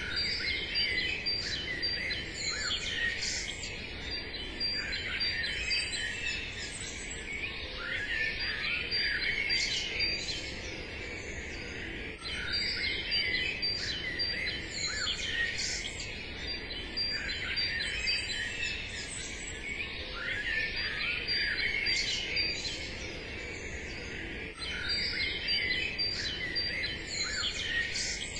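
Birdsong ambience: many small birds chirping and whistling over one another, with a thin high trill that comes and goes.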